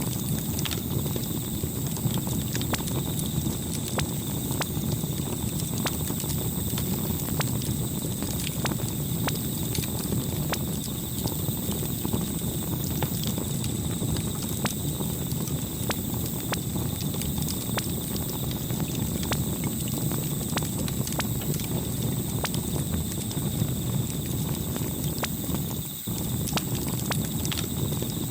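Campfire burning: a steady low rumble of flames with frequent sharp crackles and pops, over a faint steady high-pitched tone.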